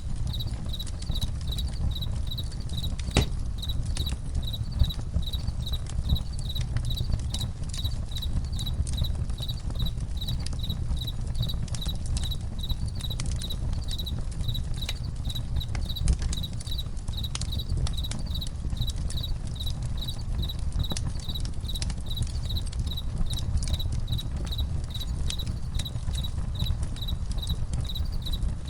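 Crickets chirping in a steady, even rhythm over a crackling campfire, with scattered sharp pops from the fire and a low steady rumble beneath.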